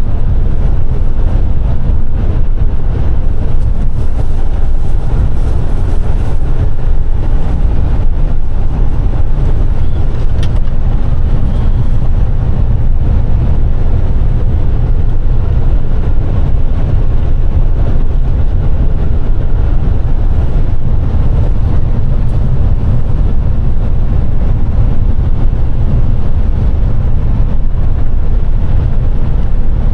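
Steady, loud low rumble of a semi-truck driving at road speed, heard inside the cab: the diesel engine and tyre and road noise.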